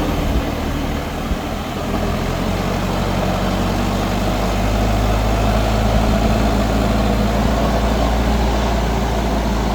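Mahindra 4WD DI tractor's diesel engine running steadily, dipping slightly about a second in and then picking up again.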